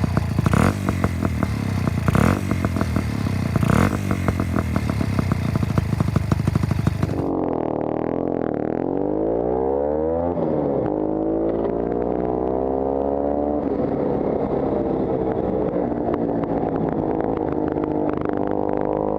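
Puch 250 SGS split-single two-stroke motorcycle engine running. For the first seven seconds it runs with a clattery, ticking beat. Then the sound cuts to another recording, where the engine revs with its pitch rising and falling and then runs on with slow pitch swells, as when pulling through the gears.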